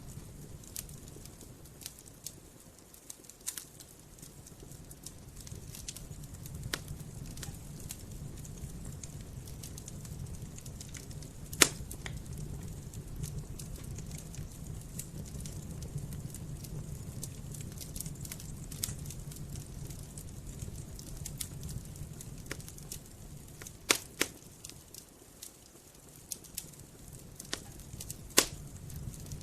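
Wood campfire crackling, with scattered sharp pops over a steady low rumble of the flames. The loudest pops come about 12 seconds in, as a quick pair near 24 seconds, and again near 28 seconds.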